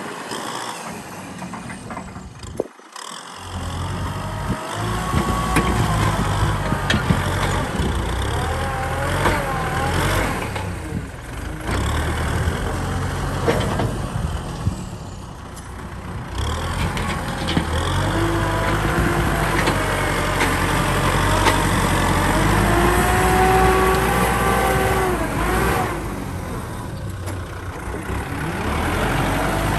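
Kubota M6040 tractor's diesel engine running under load, its pitch wavering up and down as it works, with a brief dip in sound about three seconds in.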